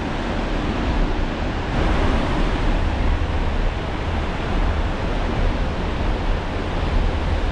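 Wind buffeting the microphone: a steady rushing noise with a heavy, uneven low rumble.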